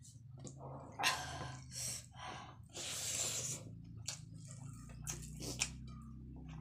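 Chewing a mouthful of rice and greens with the mouth closed: irregular wet smacking and squelching sounds, with a few short sharp clicks in the second half, over a low steady hum.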